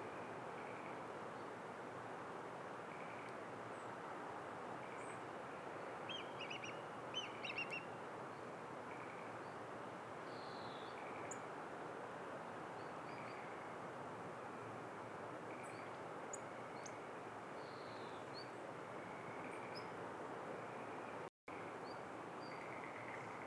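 Small wild birds calling over a steady hiss of outdoor background noise: scattered short, high chirps and thin ticks, with a quick flurry of chirps about six to eight seconds in.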